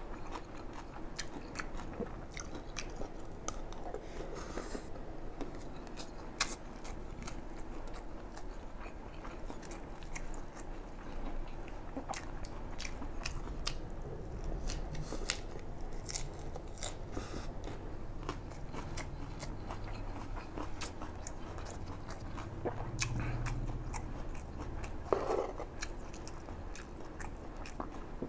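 A person chewing and biting mouthfuls of fried rice with Chinese sausage and lettuce, with many short, sharp crunches and clicks throughout.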